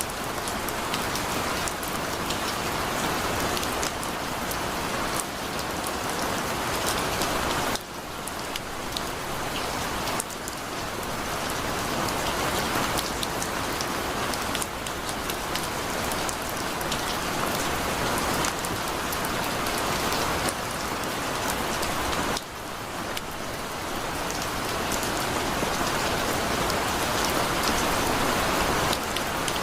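Heavy rain falling steadily, a dense hiss with individual drops striking a surface. The sound dips briefly twice, about a third of the way in and again about three-quarters of the way through.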